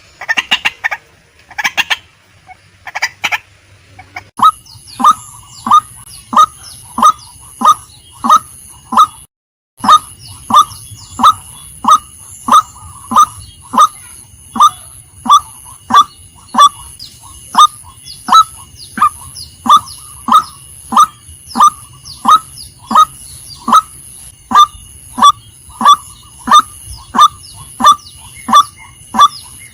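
Female white-breasted waterhen calling: after a few irregular calls, a long run of short, evenly repeated call notes at about one and a half a second, breaking off briefly about nine seconds in. A steady high-pitched tone runs beneath the calls.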